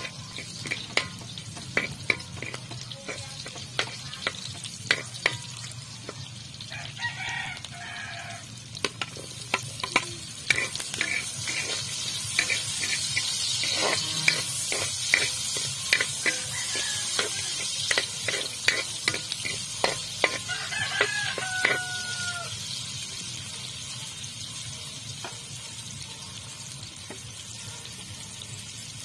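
Garlic and shallots sizzling in hot oil in a steel wok, with a metal spatula clinking and scraping against the pan many times. The sizzle grows louder about ten seconds in as the shallots fry. A rooster crows twice in the background.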